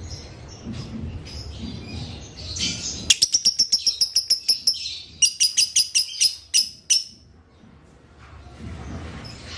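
Lovebird chattering in a long 'ngekek' trill. It starts about three seconds in as a fast run of sharp, evenly repeated high notes, about nine a second. After a brief break a slower run follows and stops around the seventh second. There is softer twittering before the trill.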